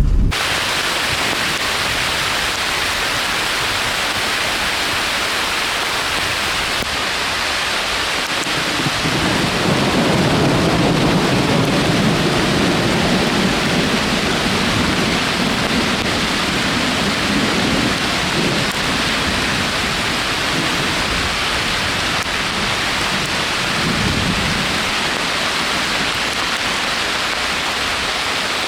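Heavy, steady rain, with a low rumble of thunder swelling about nine seconds in and dying away by about eighteen seconds.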